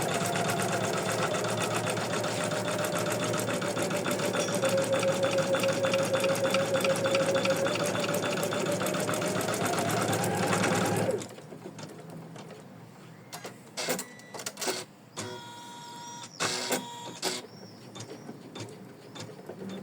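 Embroidery machine stitching at a fast, steady pace, then stopping abruptly about eleven seconds in. After it stops there are a few clicks and brief tones.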